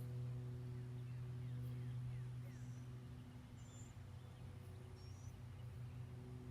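Steady low hum with a few faint, short high-pitched chirps from small birds, spaced a second or more apart.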